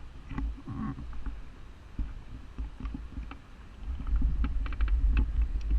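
Scooter ride over city streets: wind and road rumble on the microphone, growing louder about four seconds in, with scattered sharp knocks and rattles from bumps in the pavement.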